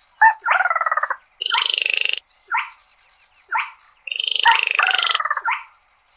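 Baillon's crake (quốc lùn) calling repeatedly: dry, frog-like rattling notes under a second long, three of them, alternating with short sharp upslurred calls, as used to call in the flock.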